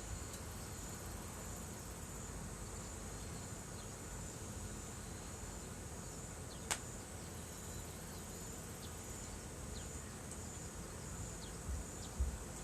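Insects trilling steadily at a high pitch, with a campfire crackling: one sharp pop about two-thirds of the way through and a few faint ticks.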